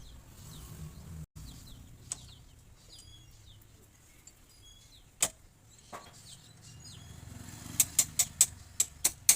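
Sharp metal clicks and taps from fitting the spring lock onto a motorcycle's rear mono-shock spring, a few scattered, then a quick run of about seven near the end.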